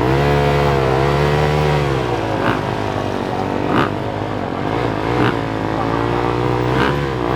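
Motocross bike engines revving at the start line, the pitch held high and wavering up and down.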